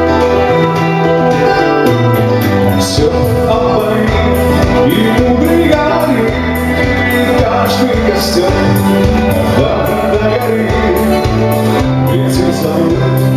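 Live band playing a song with a steady beat: a bass line moving from note to note under held keyboard chords, with regular cymbal strokes from the drums.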